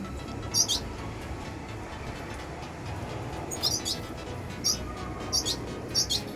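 Red siskins giving short, high, squeaky chirps: one about half a second in, then four more spaced through the last three seconds.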